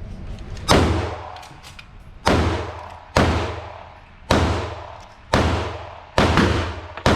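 Seven gunshots fired at an uneven pace of about one a second, each sharp report followed by a long echoing tail.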